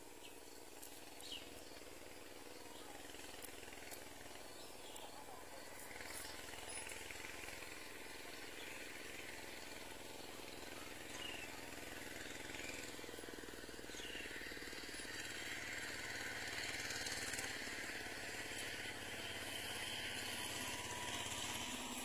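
Faint, scattered high chirps from birds at a bulbul nest over steady outdoor background noise with a low rumble. A high hiss builds through the second half.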